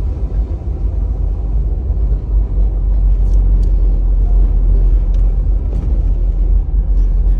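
Steady low rumble of a car driving, tyre and engine noise heard from inside the cabin, with a few faint ticks about halfway through.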